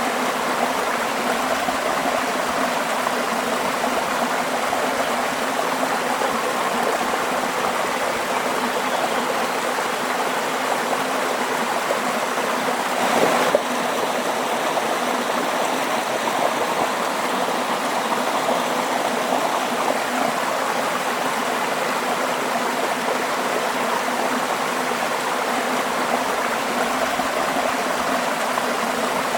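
Running water flowing steadily, like a stream, with a single short bump about halfway through.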